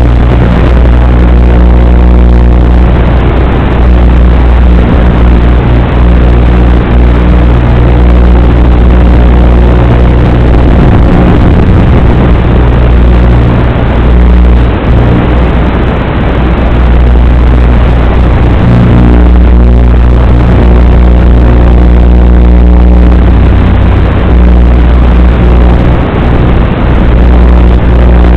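The brushless motors of an Eachine Lizard95 micro FPV racing quadcopter running, a steady hum of several pitched tones. It sits under a heavy low rumble of wind buffeting the microphone.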